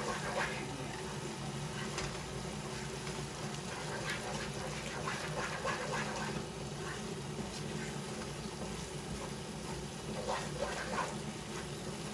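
Chopped onion, garlic and berbere chili powder sizzling and bubbling in a nonstick pot as they fry, stirred with a wooden spoon, with scattered soft crackles and scrapes.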